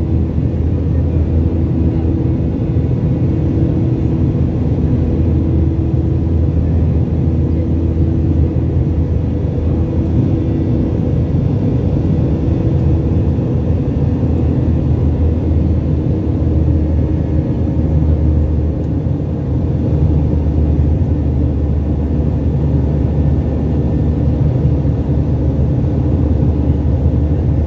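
Airliner cabin noise: a steady low rumble from the jet engines and airflow, with a few held tones over it.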